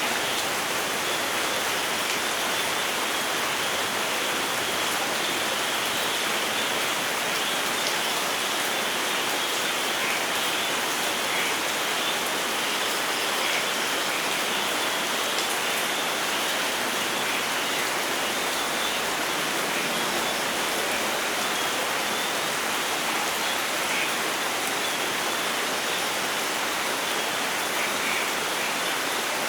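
Steady rain falling in a forest, an even unbroken hiss with no thunder.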